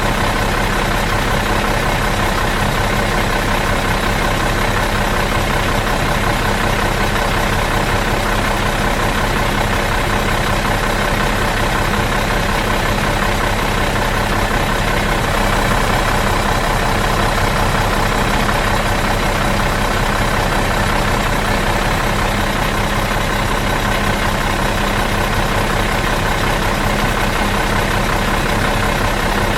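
Bus engine idling out of gear, a steady, even hum with a low rumble that does not change.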